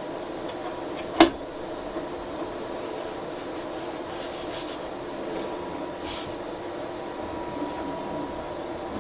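Steady hum of a Geeetech A20 3D printer's cooling fans, with a thin whine over it. A single sharp click about a second in, and a few faint rustles later.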